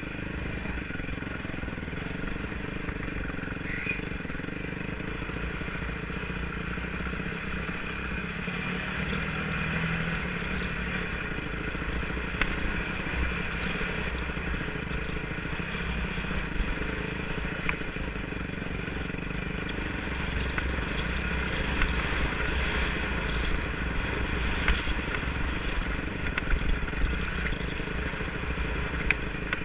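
Enduro motorcycle engine running steadily over rough ground, with a low rumble and occasional sharp knocks and clatter. It gets somewhat louder about two-thirds of the way through.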